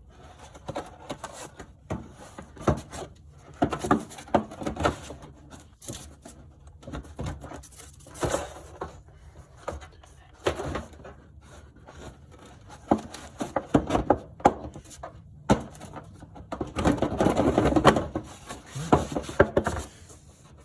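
Scattered knocks, clicks and light rattles of car body parts and wiring being handled and fitted, with a longer stretch of rubbing and rattling about three-quarters of the way through.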